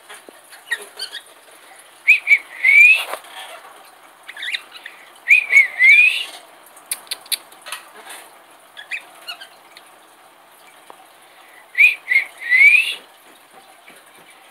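Caged pet bird whistling a short phrase, two quick notes then a rising note, repeated three times, with soft chirps and clicks in between.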